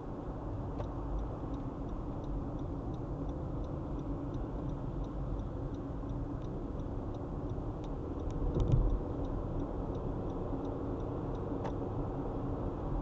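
Car driving at highway speed, its steady road and engine noise heard from inside the vehicle, with light regular ticking about three times a second through the first two-thirds and a brief thump about eight and a half seconds in.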